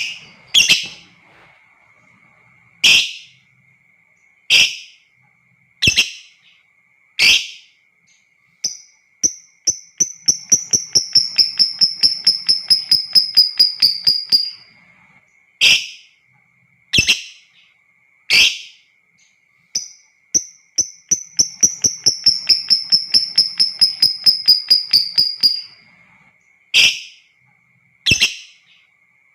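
Lovebird calling with sharp single shrieks about every second or so, broken twice by a long, rapid, chattering trill lasting several seconds (the 'ngekek'). A faint steady high tone runs underneath.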